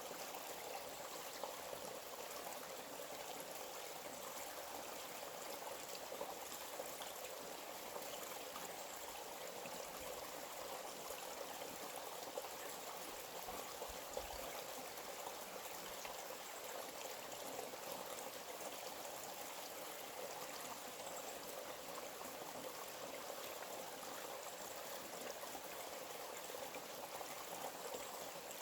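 A small stream running steadily, an even rush of water with fine splashing ticks scattered through it.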